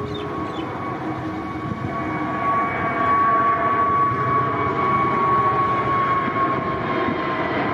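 Jet airliner engines at take-off power: a steady roar with a high whine, growing louder over the first three seconds and then holding, the whine dropping slightly in pitch near the end.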